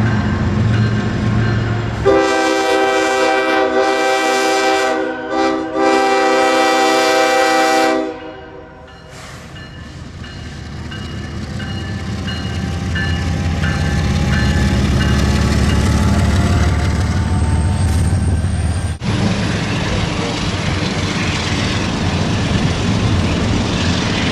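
Diesel locomotive's multi-chime air horn sounding for about six seconds, with a brief dip partway through, over the engine's rumble. The horn then fades, and a train's rumble builds. After a sudden cut, the steady rushing noise of a train running by continues.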